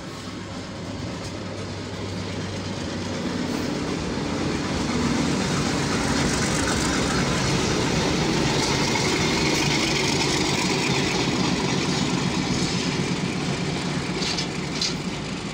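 Diesel locomotive hauling goods wagons passing close by: the engine noise grows louder over the first five seconds, then runs steadily loud as the locomotive and wagons go past, with a few sharp clicks near the end.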